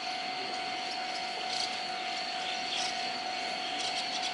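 Steady running noise of a train: an even rush with a constant high whine over it.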